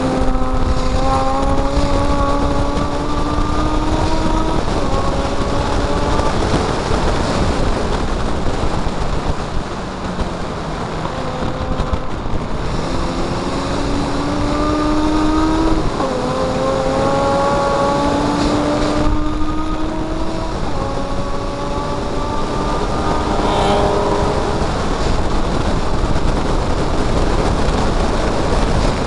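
Mazda MX-5 race car's four-cylinder engine heard on board at racing speed, its pitch climbing steadily under acceleration and dropping back at each gear change or lift, several times over. A steady rush of wind and road noise runs underneath.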